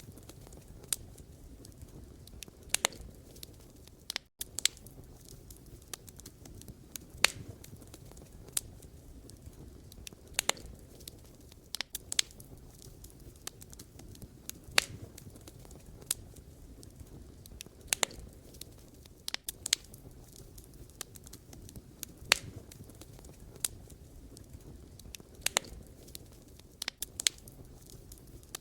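Wood fire crackling: sharp, irregular pops and snaps from burning logs, a second or two apart, over a steady low rumble of flame. There is a brief dropout about four seconds in.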